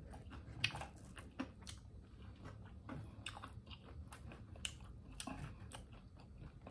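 A person chewing a mouthful of chicken liver taco: faint, irregular clicks and small crunches of chewing.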